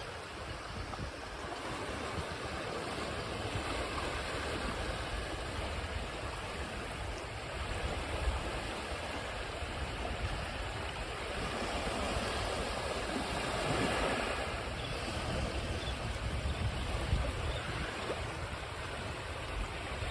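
Ocean waves washing onto a shore, a steady rush of surf that swells and eases, building to a peak a little past the middle.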